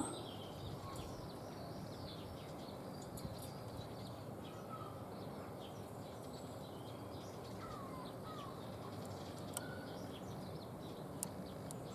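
Faint, scattered short bird chirps and calls over a steady background hiss, with a few faint clicks.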